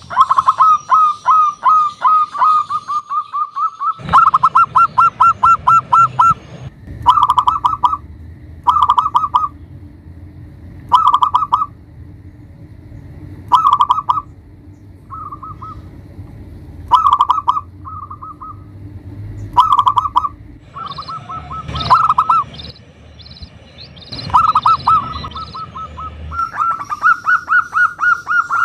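Zebra dove (perkutut) cooing: trains of rapid, staccato pulsed notes. Long runs come at the start and end, with short bursts about every two seconds in between.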